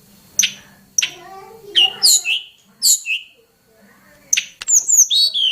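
Tledekan gunung songbird singing a varied song of sharp clicks, short chirps and bending whistled notes, ending with a quick string of falling whistles. A faint low hum runs underneath.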